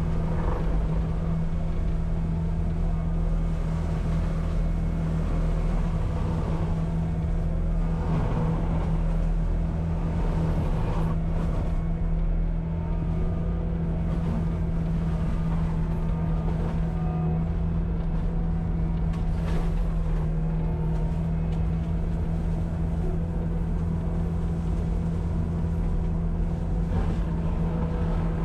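Diesel engine running at a steady speed, a loud, even, low drone.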